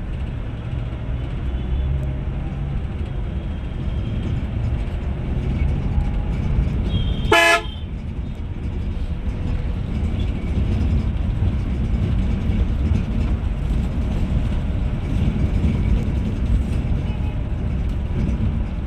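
Steady low rumble of a bus under way, with one short, loud horn toot about seven seconds in.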